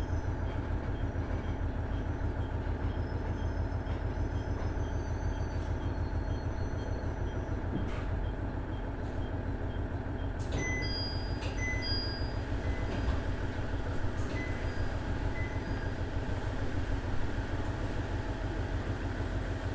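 Running noise inside a KiHa 110 series 200 diesel railcar: its Cummins DMF14HZA diesel engine and wheels on the rails make a steady low rumble. A few short, faint high-pitched tones come in from about halfway through.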